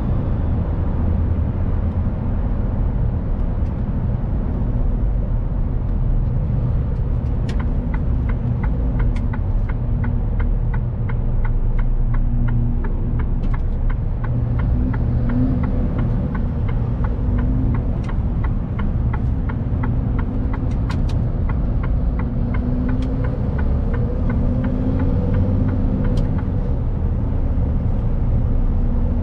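Mercedes-Benz Actros truck on the move: its diesel engine and the road give a steady low rumble. For about twelve seconds in the middle there is a run of even ticks, roughly three a second.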